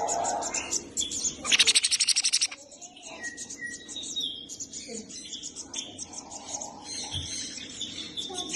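Sun conure chirping: a loud, rapid run of chirps about one and a half seconds in, then quieter chirps and short whistled notes.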